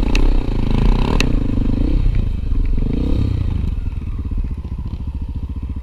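Trail motorcycle engine running with its pitch rising and falling as the throttle is worked, then settling to a steady low idle about four seconds in. Two sharp clicks near the start.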